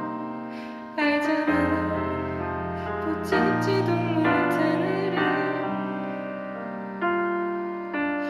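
Piano playing an instrumental passage of a slow ballad: sustained chords struck every second or two, each ringing on and fading away.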